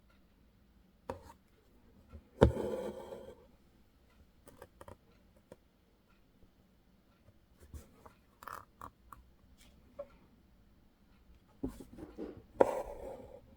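An embroidery needle and thread worked through fabric: small taps and clicks as the needle passes, and two louder rasping pulls of thread drawn through, about two and a half seconds in and again near the end.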